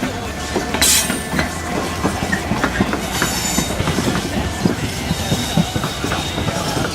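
A train running by, its wheels clattering over rail joints in an irregular series of knocks over a steady rumble. Two brief high hisses come through, about a second in and around three seconds in.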